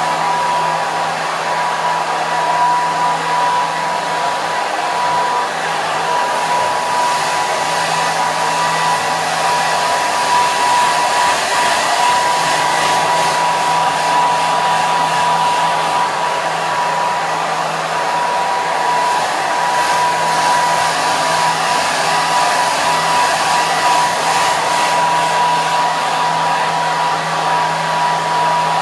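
Hair dryer running continuously: a steady rush of blown air with a constant whine from the motor and fan, unchanging in level.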